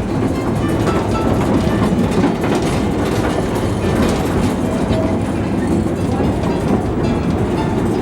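Small farm railroad train running on its track: a steady rumble of wheels on the rails with clickety-clack.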